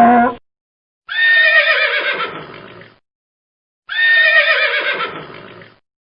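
Horse whinnying, the same falling, quavering call heard twice with a short silence between.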